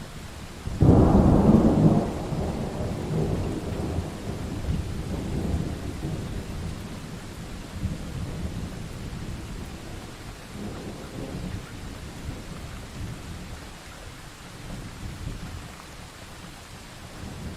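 Thunderstorm sound effect: steady rain with a sudden loud thunderclap about a second in that rumbles away over several seconds, and a fainter roll of thunder later on.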